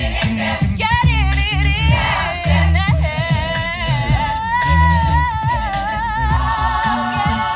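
A cappella vocal group singing in harmony, several voices holding wavering lines over a low bass part that comes in short repeated pulses.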